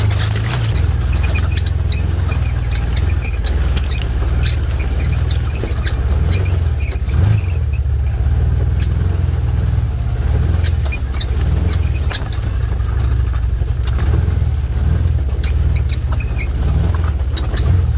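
Can-Am side-by-side off-road vehicle driving over rough ground: a steady low engine rumble with frequent knocks and rattles.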